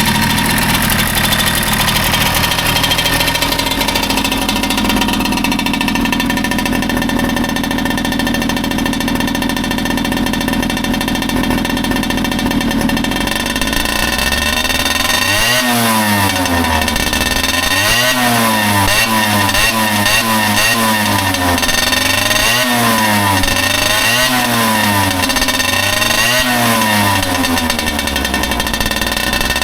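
Tomos APN6 moped's 49 cc two-stroke single-cylinder engine running at a steady speed, then revved up and down repeatedly from about halfway through, a blip every second or two.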